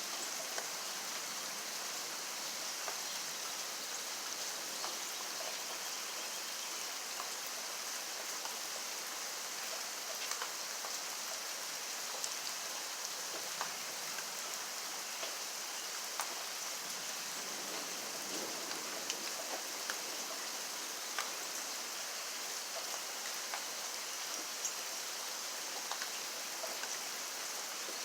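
Steady rainfall, a continuous hiss with scattered individual drops ticking on a surface.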